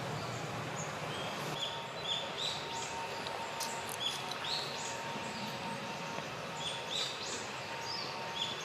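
Japanese sparrowhawk nestlings giving short, high calls over and over in quick runs, beginning about a second and a half in.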